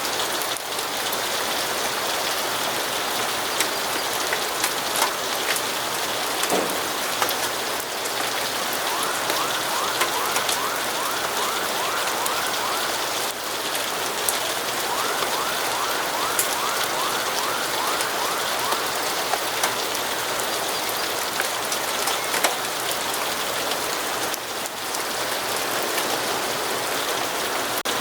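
Steady rain falling, with scattered sharp ticks. Twice in the middle comes a few seconds of a fast, repeated high trill.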